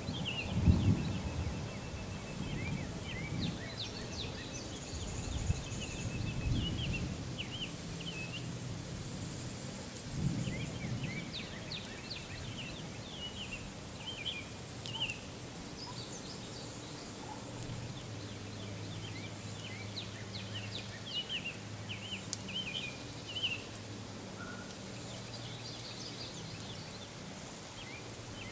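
Songbirds chirping and calling over and over, many short quick notes, over a quiet outdoor background, with a few soft low thumps near the start and again around five and ten seconds in.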